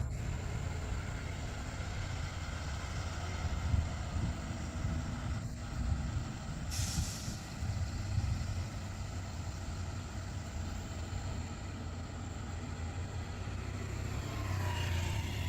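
Heavy-haul semi truck rolling downhill under load with a steady low engine and road rumble. A short air hiss comes about seven seconds in, typical of an air-brake release.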